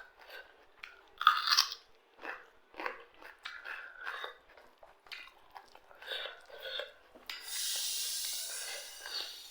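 A person chewing and crunching food close to the microphone, with irregular crisp crunches, the loudest about a second and a half in. Near the end a steadier hissing noise lasts about two seconds.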